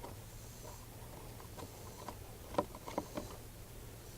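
A few light, scattered clicks and taps of a socket wrench and spark plug being handled as the loose spark plug is taken out of a four-cycle string trimmer engine, over a faint low hum.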